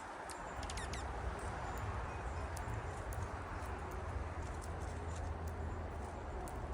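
Small wild birds giving brief high chirps: a quick run of falling notes about a second in, then scattered short peeps and ticks, over a steady background hiss and low hum.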